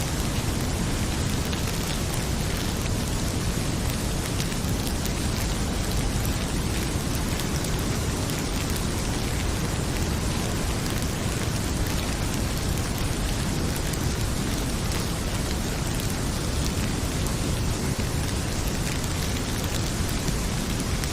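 Heavy rain falling in a steady, even downpour, with faint scattered pops of a crackling wood fire.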